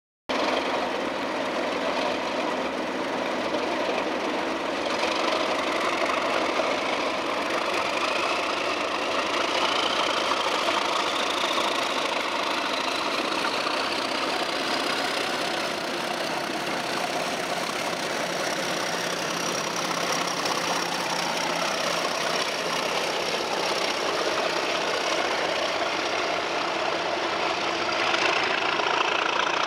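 Two Class 37 diesel locomotives' English Electric V12 engines working as they pull away, with a turbocharger whistle that rises in pitch over several seconds and then holds high. The sound grows louder near the end.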